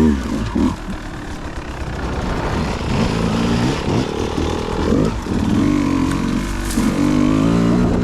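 Dirt bike engine revving up and down in repeated throttle bursts over a steady low rumble, held at higher revs for a couple of seconds near the end.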